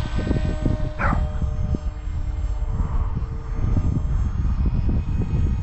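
Wind buffeting the microphone in a steady low rumble, with the faint steady whine of a foam FPV combat wing's electric motor and propeller in the air. About a second in comes a brief high sound that slides downward.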